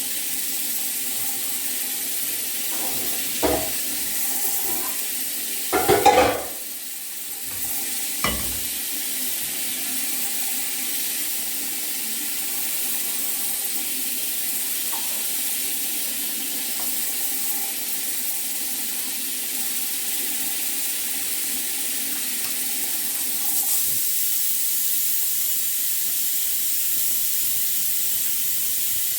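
Onion frying in cooking oil in a pan, with a steady sizzle. A few knocks of a utensil against the pan break in, the loudest cluster about six seconds in, then one more about two seconds later.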